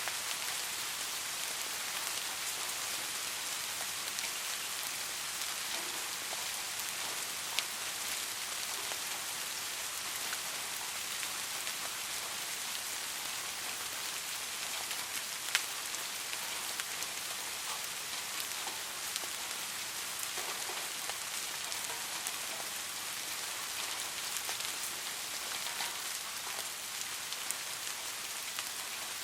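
Steady soft rain: an even hiss of falling rain with scattered individual drops ticking, two of them sharper, at about 7.5 and 15.5 seconds in.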